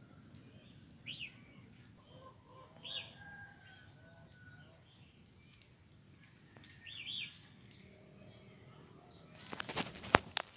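Birds chirp a few times, each chirp short, over a faint steady high-pitched tone and quiet outdoor background. Near the end, loud crackling and crunching of dry leaves and stalks starts.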